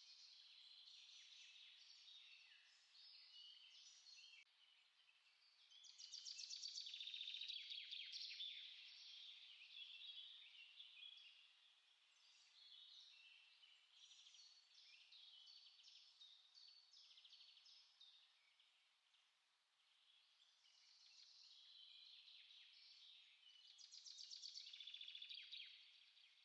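Faint chorus of many small songbirds chirping and singing over one another, with louder bursts of rapid trilling about six seconds in and again near the end.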